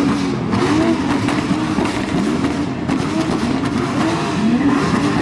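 A car engine revved over and over, its pitch rising and falling about once or twice a second.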